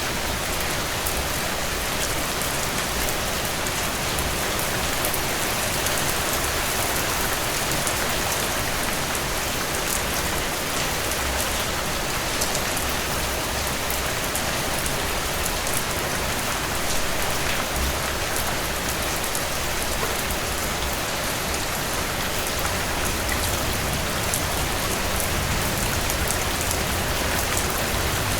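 Heavy rain falling steadily on a cabin porch, a dense even hiss sprinkled with many small, sharp drop ticks.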